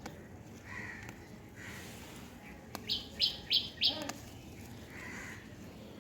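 A bird calling outdoors: four short, loud, high notes in quick succession about three seconds in, with softer single calls before and after.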